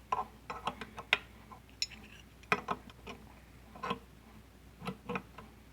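Metal wrenches clinking and clicking as they are picked up and handled. The sound is a dozen or so irregular, sharp metallic clicks at uneven intervals.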